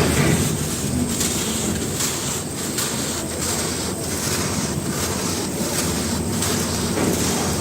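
Pure cement balls and slabs crumbling, a continuous dense crunching crackle with a louder crunch right at the start.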